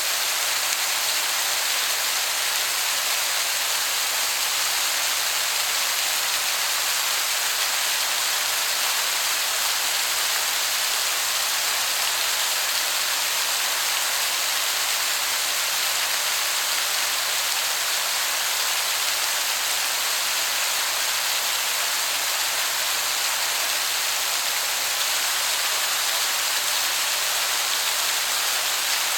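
Waterfall heard from a distance: a steady, even hiss of falling water, mostly high in pitch, that sounds like heavy rain.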